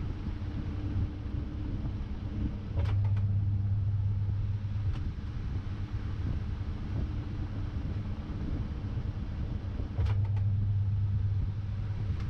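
Samsung 6.5 kg top-load washing machine running, heard from inside the drum: a steady low rumble. About three seconds in and again about ten seconds in, a click is followed by a louder motor hum lasting about two seconds.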